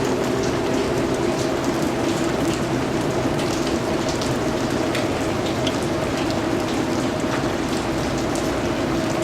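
Steady rain falling: a constant hiss with many separate drops ticking on a surface. A faint steady hum lies underneath.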